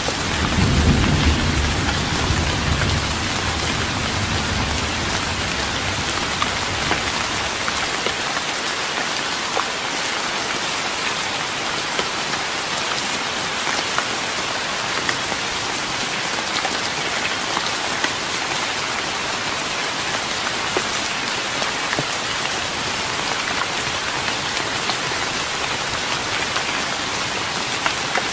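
Steady rain pattering on a wooden deck, a dense even hiss with many small drop ticks. A low rumble of thunder is loudest about a second in and fades away over the first seven or eight seconds.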